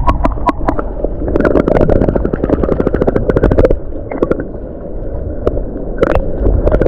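Seawater sloshing and gurgling around an action camera held at or just under the surface. The sound is muffled, with dense bubbly clicks and pops, and eases off briefly about two-thirds of the way through.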